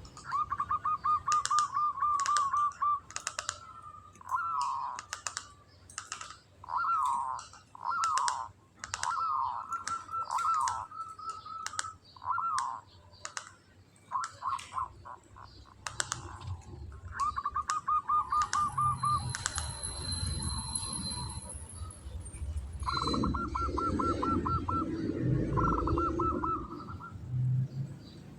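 Zebra dove (perkutut) singing: rapid rolling trills and short falling coo notes, repeated in phrases, with sharp clicks between them.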